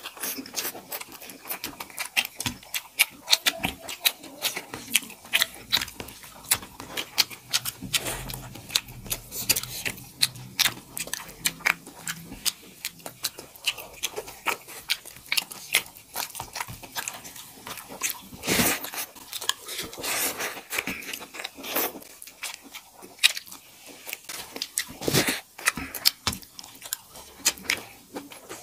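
Close chewing and mouth sounds of people eating rice and potato-gundruk curry with their fingers: a dense run of short wet clicks and smacks, with a few louder ones about two-thirds of the way through and near the end.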